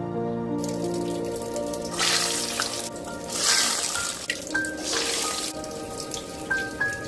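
Soft instrumental background music over a hissing, crackling sizzle that comes in about half a second in and swells twice in the middle before settling: the moringa-leaf vadas frying in hot oil.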